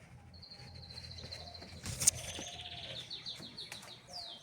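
A small songbird singing: a long, high, steady trill, then a run of quick falling notes, about four a second. A sharp click about two seconds in.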